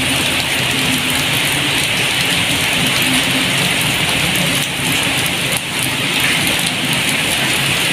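Steady rain falling on the ground and roofs, an even hiss that holds without a break, with a faint low hum underneath.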